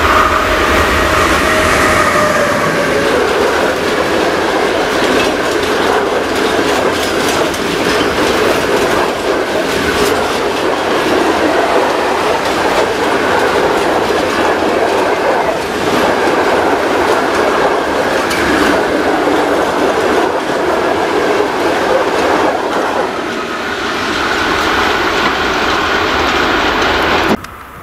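Freight train of covered hopper wagons passing close by: a steady rumble and rattle of wheels on rail, with repeated clicks over rail joints. A whine falls in pitch over the first few seconds. The sound stops abruptly near the end.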